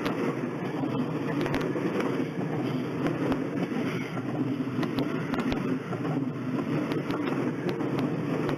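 Seibu Railway train running by: a steady rumble of wheels on rail with scattered sharp clicks.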